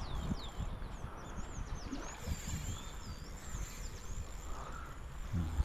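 Small birds chirping, with many quick high whistles sweeping up and down in pitch, over a low rumble; a dull thump near the end.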